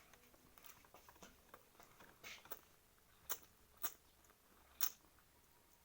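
Quiet sounds of a person eating: soft mouth and chewing noises with a few sharp clicks, three louder ones between about three and five seconds in.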